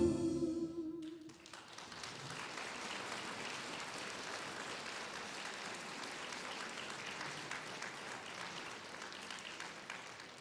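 A brass band's final held chord dies away in the first second or so, then an audience applauds steadily.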